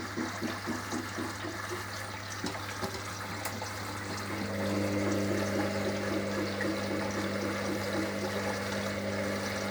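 Hoover HLW585DC washer dryer filling with water for its final rinse: water rushing into the machine with a steady hum, growing a little louder about four and a half seconds in.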